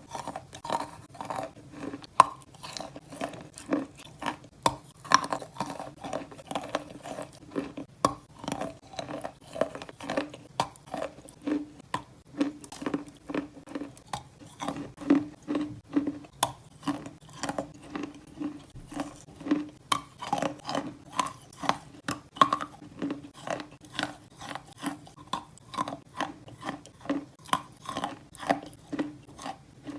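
Close-up crunchy chewing of chalk, about two chews a second, steady throughout.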